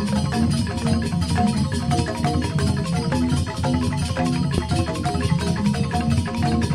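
Balinese joged bumbung gamelan: bamboo-tube xylophones (grantang) struck with mallets in a fast, dense run of notes, with percussion.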